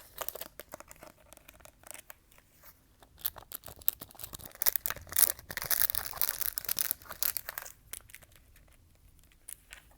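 Fast, close-miked ASMR trigger sounds: rapid clicks and scratchy, crinkly rubbing, densest and loudest from about four to eight seconds in.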